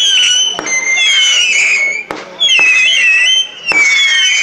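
Fireworks going off: several whistling fireworks screeching at once, their pitches gliding up and down, with a few sharp bangs among them.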